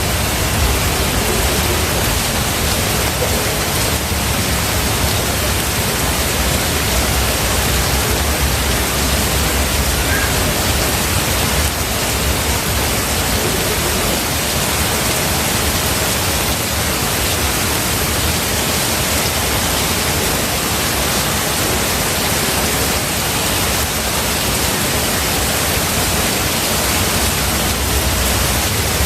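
Heavy rain falling steadily, a dense even hiss, with a low rumble underneath that is stronger in the first part and again near the end.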